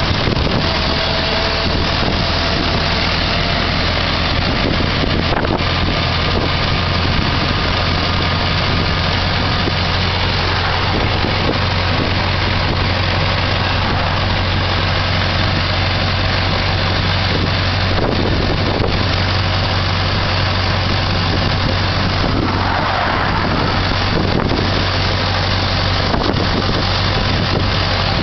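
1910 Ford Model T's four-cylinder side-valve engine running steadily at road speed, under a continuous rush of wind and road noise through the open-sided car.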